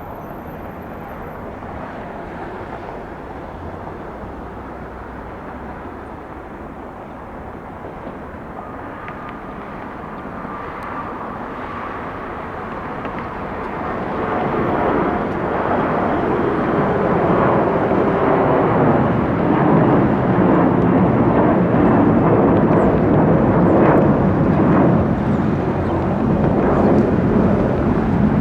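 Mitsubishi CRJ-900 regional jet's two rear-mounted GE CF34 turbofans on takeoff: a steady jet rumble that grows much louder from about halfway through and stays at its loudest to the end.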